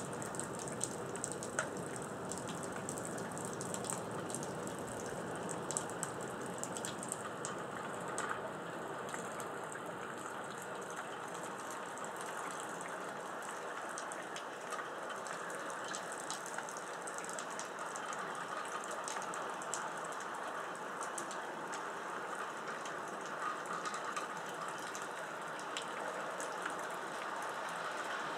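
Steady rain falling, with scattered sharp ticks of raindrops striking nearby surfaces.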